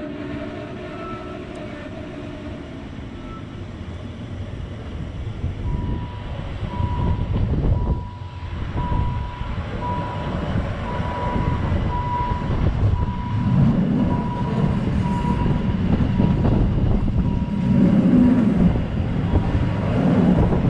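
Rhaetian Railway ABe 8/12 electric train pulling away and running on the rails, a steady rumble with wind on the microphone that grows louder as it picks up speed. A faint high beep repeats about once a second in the middle.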